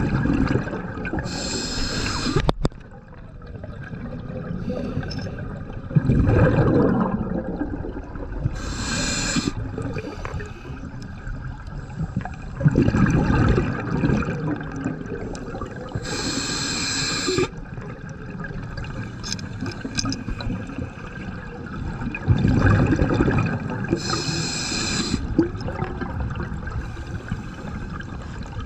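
Scuba diver breathing through a regulator underwater, about four slow breaths. Each has a short hiss of inhaled air with a whistly edge and a low gurgle of exhaled bubbles, repeating about every seven seconds.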